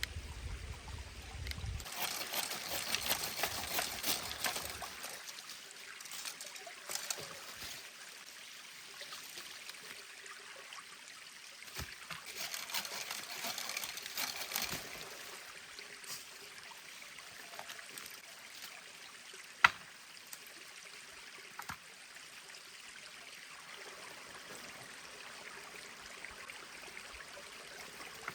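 A small mountain stream trickling steadily. Two louder stretches of crackling rustle come in, a few seconds in and again around the middle. A single sharp click, the loudest sound, comes about two-thirds of the way through.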